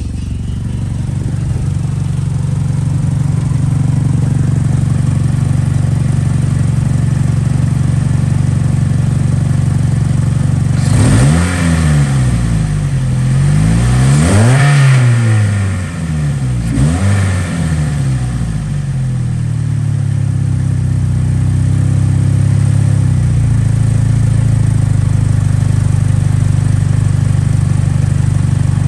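2008 Chevrolet Malibu engine idling steadily. Near the middle it is revved three times in quick succession, each rev rising and falling, before it settles back to idle.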